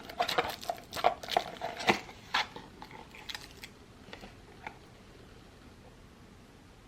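Crisp crackling and clicking of things being handled, dense for about two seconds, then a few scattered clicks, then only faint room noise.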